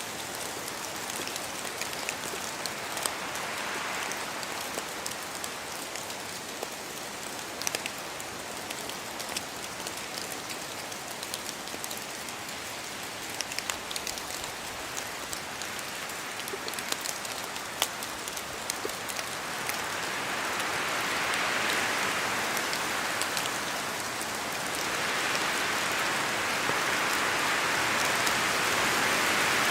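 Rain falling in a spruce forest: a steady patter with many sharp drops landing close by. The wind rises through the trees in swells, about two-thirds of the way in and again near the end.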